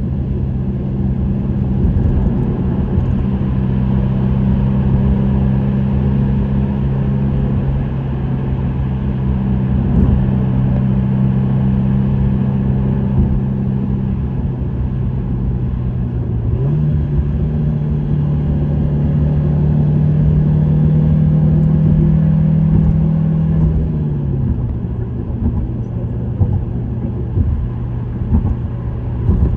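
Subaru WRX STI's turbocharged EJ20 flat-four with an STI Performance muffler, cruising with a steady exhaust drone over road noise. Just past halfway the engine note steps up abruptly to a higher pitch, holds for several seconds, then drops back to the lower drone near the end.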